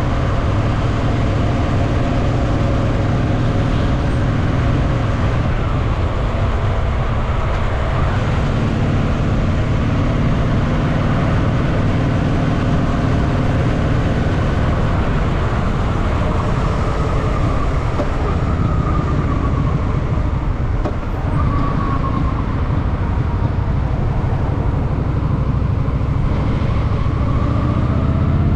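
Honda Shadow VT750's V-twin engine running while the motorcycle is ridden, a steady rumble whose pitch rises and falls several times in the second half as the throttle changes.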